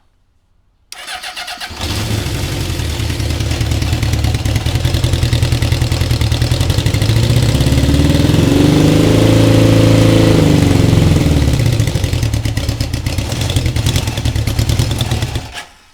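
Honda CB750K2's air-cooled inline-four engine turning over and catching about a second in, then running. Its speed rises and falls in the middle, and it cuts off suddenly near the end.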